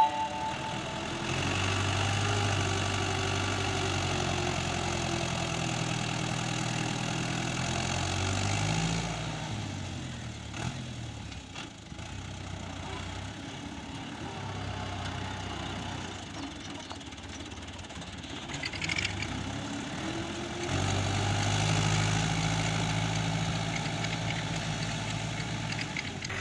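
Tractor diesel engine working in a field. It revs up about a second in and holds high, drops back around nine seconds, then picks up again around twenty-one seconds.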